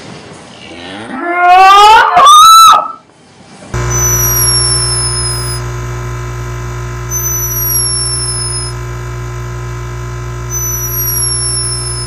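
A black-and-white dairy cow gives a loud moo that climbs steeply in pitch into a shrill yell and ends about three seconds in. Then a hummingbird makes three tiny, high, thin whistles, each falling slightly in pitch and lasting about a second and a half, over a steady hum.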